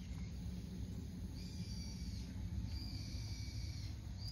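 A bird's long, level whistled notes, three in a row, each about a second long, over a low steady rumble.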